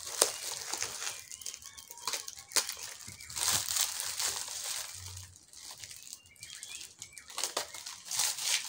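Packaging crinkling and rustling in irregular bursts as it is handled and unwrapped, with a few sharp crackles.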